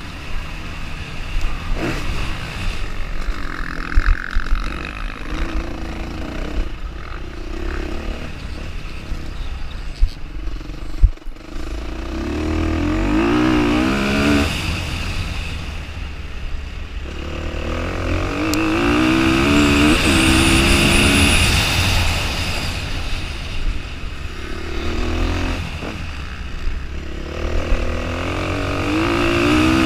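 Off-road motorcycle engine heard from the rider's helmet camera, revving up again and again in rising sweeps and easing off between them. The bike is accelerating and shifting gears on a dirt course. A few sharp knocks come through the ride.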